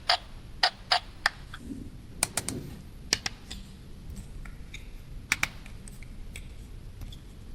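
Small hard plastic toy pieces clicking and tapping as they are handled, in irregular sharp clicks, some in quick pairs and triples. They thin out to faint ticks in the last couple of seconds.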